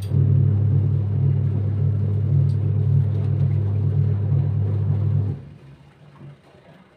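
A steady low motor hum that starts suddenly and cuts off after about five seconds.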